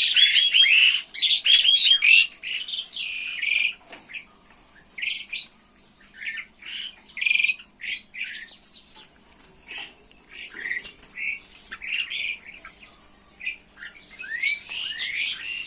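Small birds chirping and squawking. A dense run of short calls comes in the first two seconds, then scattered single chirps follow, with a small cluster near the end.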